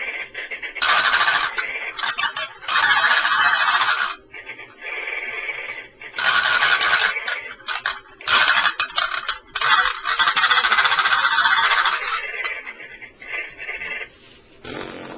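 Electronic talking toy parrot giving out loud, harsh screeching noises through its small speaker, in repeated bursts of one to two seconds that die down near the end.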